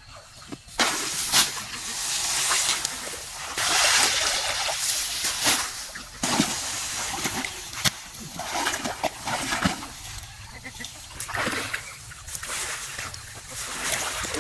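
Irregular splashing and sloshing of water, starting about a second in and going on in uneven bursts.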